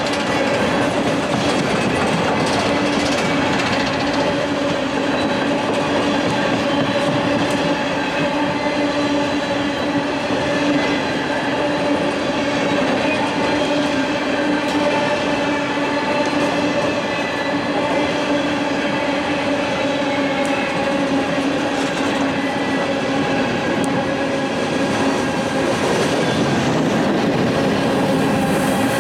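Freight train rolling past steadily, its cars running over the rails with a continuous rumble and clatter, with steady ringing tones running through it.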